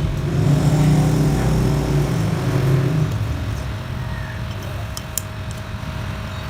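Stepper motors of a DIY Prusa Bear 3D printer running during a print, a low whine whose pitch shifts as the axes change speed, easing to a quieter, steadier hum after about three seconds.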